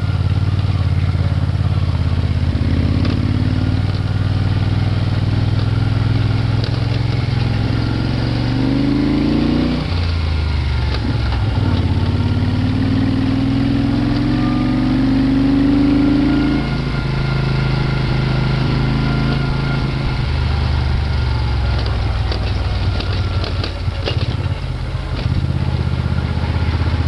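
Moto Guzzi V-twin motorcycle engine working hard up a steep, rough road. Its note climbs in pitch as it revs and then drops back, a few times over, as the load and gear change.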